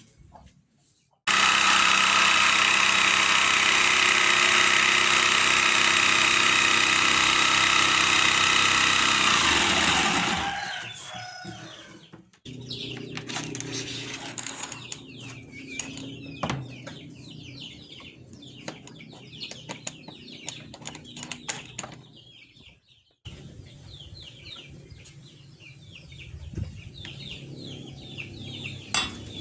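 Homemade table saw's motor running at a steady pitch for about nine seconds, then winding down as it is switched off. Quieter knocks and short high calls follow.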